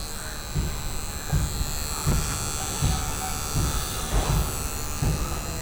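Cordless electric pet hair trimmer running with a steady high-pitched buzz as it clips a Shih Tzu's fur, with irregular dull thumps from handling.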